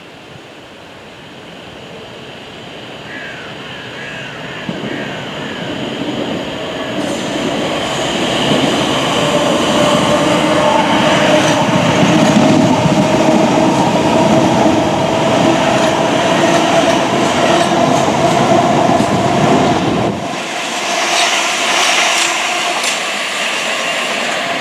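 Electric train approaching and passing on the tracks below: the rumble of wheels on rail builds over the first several seconds to a loud, steady pass with a steady whine running through it. The low rumble drops away suddenly about twenty seconds in while the whine and rail noise go on.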